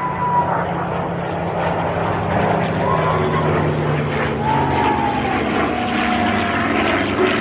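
A propeller aircraft engine running steadily, with a few short rising-and-falling tones over it.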